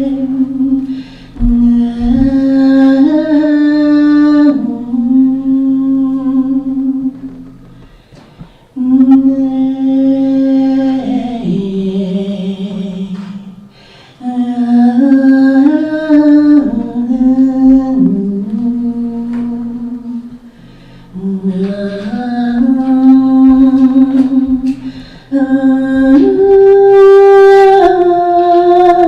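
A live voice singing wordlessly, humming-like, in long held notes that slide from one pitch to the next. It comes in phrases of several seconds with brief pauses between them.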